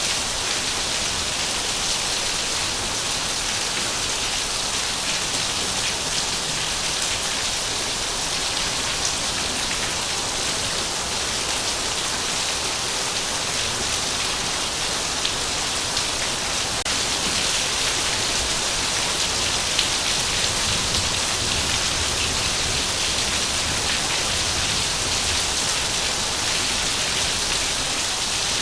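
Heavy rain falling steadily, an even hiss with countless small drop ticks on surfaces.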